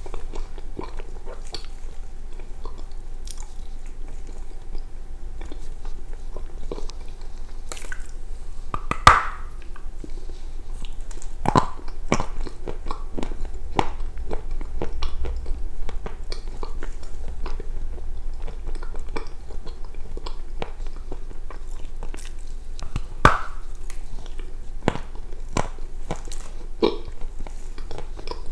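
Close-miked biting and chewing of a pale chunk of edible clay: dry crunches and small snaps throughout, with two sharper bites, one about nine seconds in and one later.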